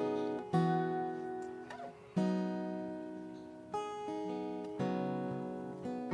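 Background music: strummed acoustic guitar chords, each ringing out and fading before the next strum, in an instrumental passage of a song.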